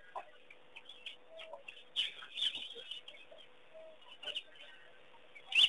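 Wild birds calling: short, sharp chirps a few times, the loudest near the end, over a faint steady hum.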